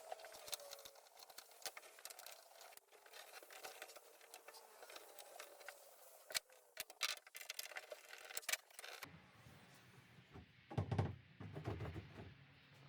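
Faint clicks and knocks of small metal hardware being handled during installation of an engine-hatch gas shock and its brackets. At about nine seconds the sound changes to a low hum with a few louder knocks.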